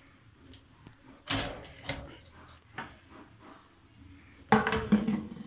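A table fan being taken apart by hand: irregular knocks, clatter and scraping of its plastic parts, with two louder handling noises about a second in and near the end, the last with a brief squeak.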